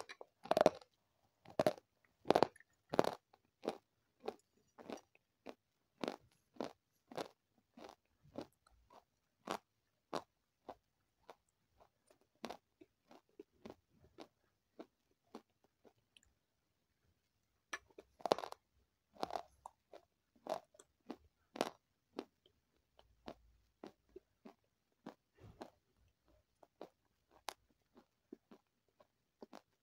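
Close-miked chewing of crunchy food: a run of loud, sharp crunches over the first few seconds, then softer chewing crunches. A brief pause comes in the middle, and a second set of loud crunches follows.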